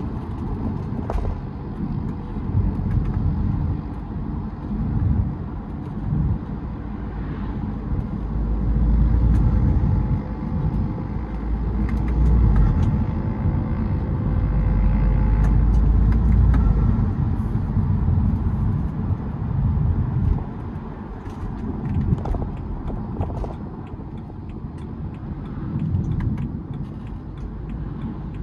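BMW E92 320d's four-cylinder turbodiesel, breathing through a K&N cold air intake, running while driving. The engine rumble swells under acceleration from about eight seconds in, with a faint rising whistle, then eases off after about sixteen seconds.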